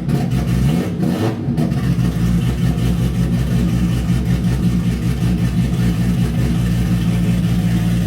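Heavily tuned Toyota Supra MK4 engine running at a steady, lumpy idle with an even pulsing beat, and a brief rise about a second in.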